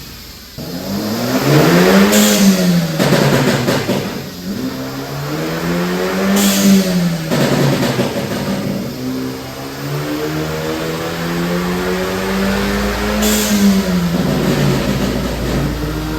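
Hyundai LF Sonata 2.0T's turbocharged four-cylinder engine revving three times; the third rise is held longest. The exhaust gives sharp pops and crackles as the revs peak and fall, from an ECU map tuned for pop and bang.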